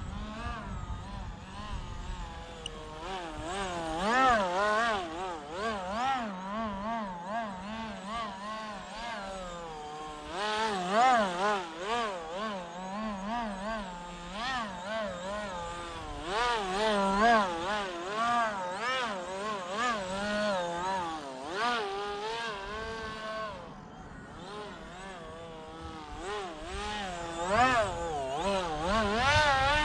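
Whine of the RC Angry Bird Egg model's D2205 brushless motor and propeller in flight, its pitch wavering up and down continually and swelling louder several times.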